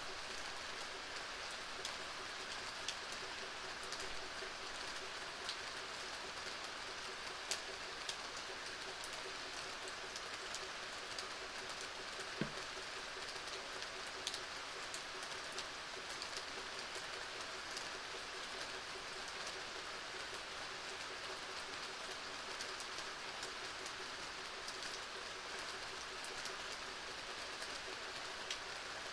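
Steady rainfall: a continuous hiss with scattered louder single drops.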